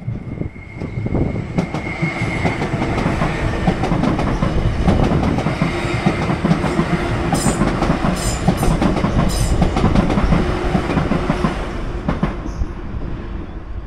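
Southeastern electric multiple-unit train passing, its wheels clattering over the rail joints. The sound builds over the first second or two and fades about twelve seconds in, with a few brief high-pitched hisses near the middle.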